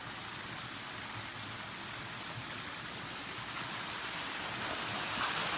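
Steady rushing of a waterfall and the creek below it, growing a little louder near the end. The water is running unusually heavily after a recent rain.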